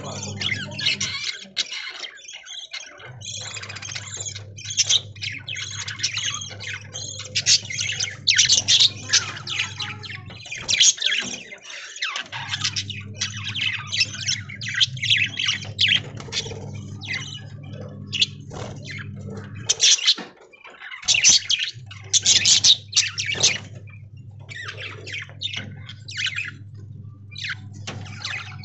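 A flock of budgerigars chattering, with many overlapping squawks and chirps throughout. Underneath, a steady low hum cuts out about a second in, near the middle and again about two-thirds through, then comes back each time.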